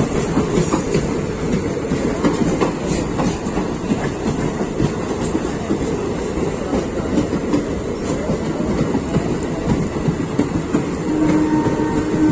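Local passenger train running at speed, its wheels rumbling and clattering over the rail joints. About eleven seconds in, a steady tone joins the rumble.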